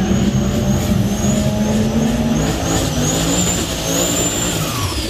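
A street truck or car engine running loud and steady, with a high whine over it that wavers and then falls away near the end.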